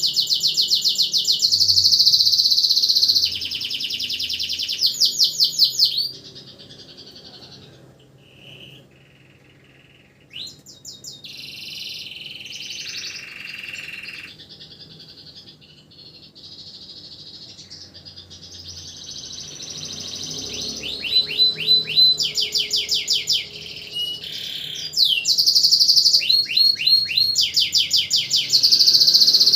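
Domestic canary singing: fast trills and runs of rapid repeated high notes. It is loud for the first few seconds, quieter and sparser in the middle, and loud again in the last third.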